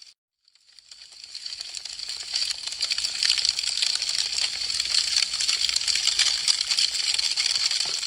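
Wood fire crackling, a dense run of small sharp pops and snaps. It cuts out for a split second just after the start, then swells back up over about two seconds.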